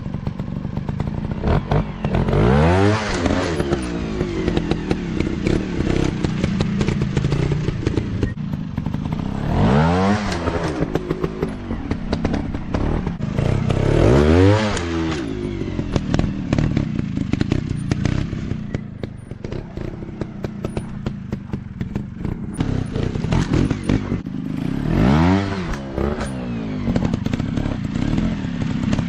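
Small dirt bike engines running off-road, revving up and dropping back four times, with rattling and clattering over rough ground throughout.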